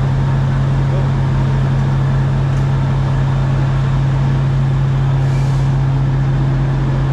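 Steady low drone inside a train carriage, a constant hum under an even rumble of running noise.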